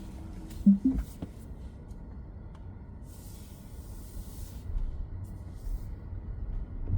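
Low, steady rumble inside a Tesla Model X cabin, with a few sharp clicks and short low thumps about a second in and a brief hiss near the middle.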